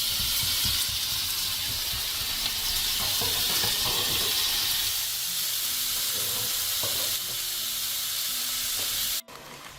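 Meat sizzling on a hot cooking surface with a steady, loud frying hiss that cuts off abruptly about nine seconds in.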